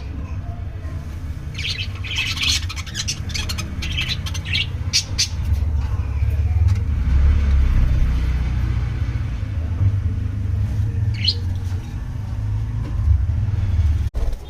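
Budgerigars chirping: a quick run of short high calls a couple of seconds in and a single call near the end, over a steady low rumble.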